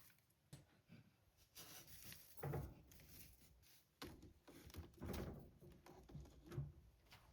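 Quiet handling sounds: scattered soft rustles and light clicks, with a few louder dull knocks about two and a half, five and six and a half seconds in.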